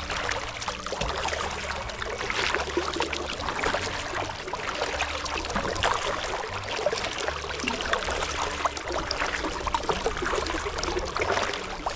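Kayak paddle dipping into and pulling through lake water, splashing and dripping as the strokes come in turn.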